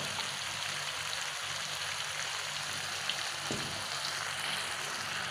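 Chili sambal frying in oil in a wok, a steady crackling sizzle: the water has cooked off and the paste is frying in its own oil. A short knock comes about three and a half seconds in.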